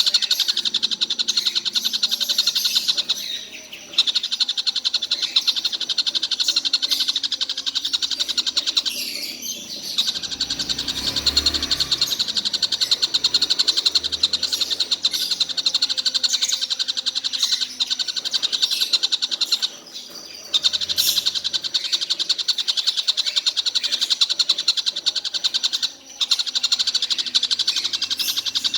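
Tengkek buto kingfisher calling nonstop: a rapid, unbroken chatter of high notes, with a few brief pauses.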